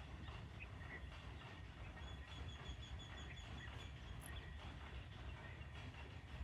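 Water running steadily onto plant leaves, a faint even splashing with a low rumble underneath, and small birds chirping faintly, one giving a rapid run of high notes about two seconds in.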